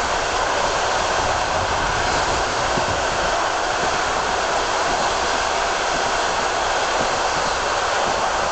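Steady rushing noise of a passenger train running at speed, heard from on board the carriage.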